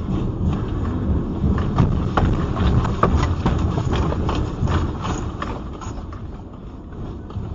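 Low rumble with many quick rattling knocks as things shake during an earthquake tremor. It is loudest through the middle and eases off near the end.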